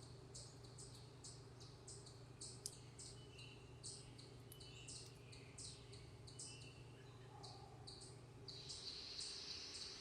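Faint backyard chirping: short high chirps repeat about three times a second, with a few softer, lower notes in the middle. A steady high trill sets in near the end, and a low hum underneath stops at about the same time.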